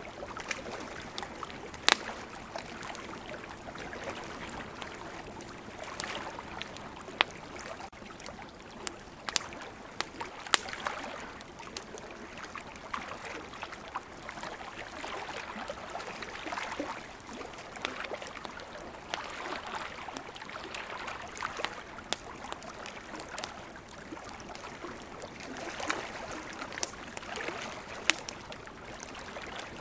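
Wood campfire crackling, with irregular sharp pops, two of them much louder (about 2 seconds in and near the middle). Beneath it is a steady wash of ocean surf that swells and fades every few seconds.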